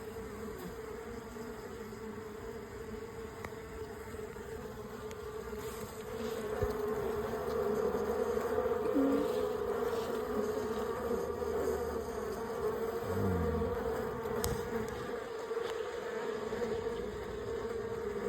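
Honeybees buzzing in an open hive, a steady hum that gets louder about six seconds in.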